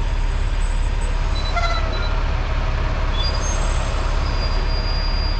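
Semi-truck running with a steady low rumble and a noisy haze of air from its brake system, which is losing air through a broken airline.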